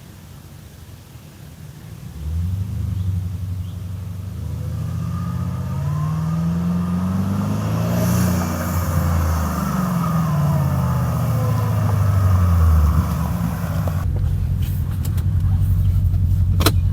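Porsche Cayenne Turbo's twin-turbo V8, running without a muffler, accelerating hard with its exhaust note climbing in pitch and growing louder. It passes by about halfway through, and the pitch falls away after that. Near the end the sound changes to a steadier, deeper drone.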